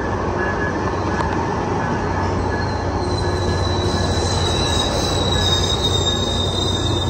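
Tri-Rail bilevel commuter train rolling past at close range, a steady rumble of wheels on rail, with a thin high wheel squeal setting in about three seconds in and sliding slightly lower in pitch.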